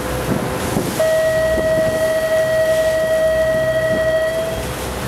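A boat horn sounding one long steady blast of about three and a half seconds, starting about a second in. Underneath it, the sightseeing boat's running noise and wind buffeting the microphone continue throughout.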